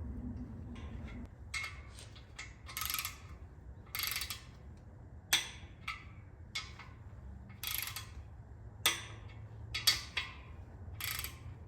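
Ratcheting torque wrench clicking in short, irregular strokes while tightening the main bearing cap bolts of an LS engine block.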